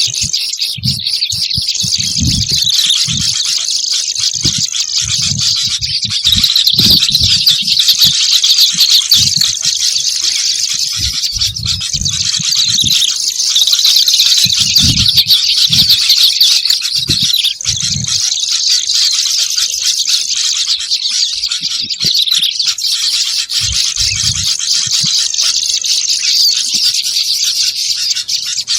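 Busy kerabasi (reed warbler) lure call: a dense, continuous chatter of many high chirps that swells and eases in stretches of a few seconds. Scattered low thuds sound under it.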